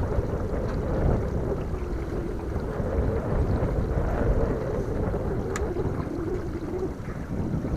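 Strong wind buffeting the microphone on a pontoon boat, a steady low rumble with a wavering mid-pitched hum underneath and a single sharp click about five and a half seconds in.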